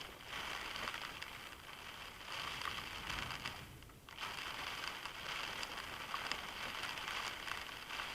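Heavy storm rain hitting a car's roof and windscreen: an even hiss full of small drop clicks, which thins out for about half a second a little past the middle.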